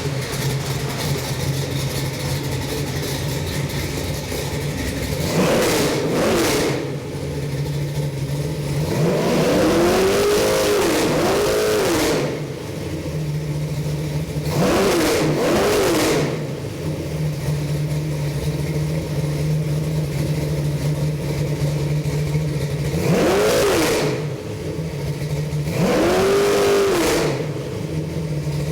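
Chevy 383 stroker small-block V8 crate engine running at a steady idle, revved up several times by throttle blips that each rise and fall quickly back to idle.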